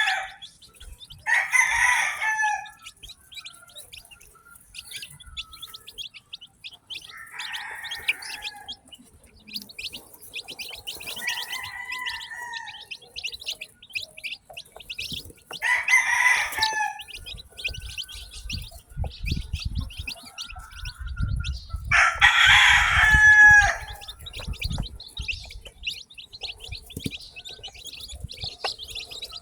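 Newly hatched chicks peeping constantly in a dense, high chorus, while roosters crow six times over it, the longest and loudest crow about two-thirds of the way in. A low rumble joins in the second half.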